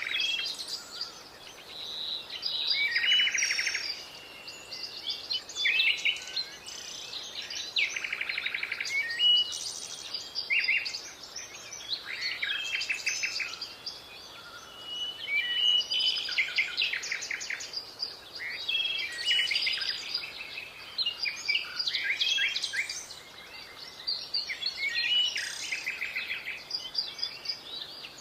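Several birds singing and calling over one another: quick chirps, short whistled notes and rapid trilling phrases, coming in bursts every second or two.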